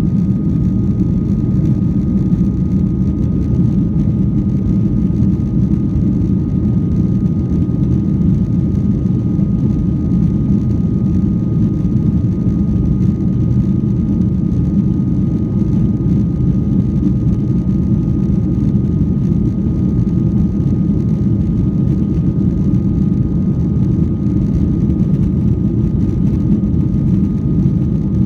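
Airliner engines and airflow during takeoff: a steady, loud low rumble with a faint, thin steady whine above it, unchanging throughout.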